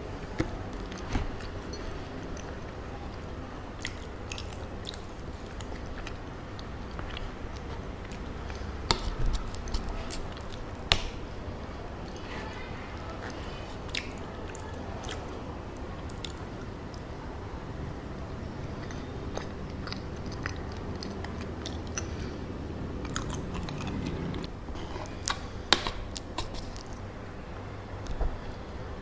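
Close-miked chewing and biting of chocolate-coated cacao mochi, soft sticky chewing with scattered sharp mouth clicks and a few louder smacks.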